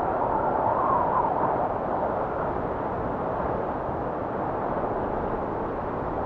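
Blizzard wind blowing steadily as a low rushing noise, with a faint whistle that swells and rises in pitch in the first second or two as a gust comes through.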